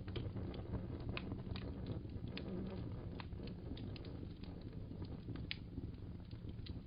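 Wood fire crackling: irregular sharp pops, several a second, over a steady low rumble.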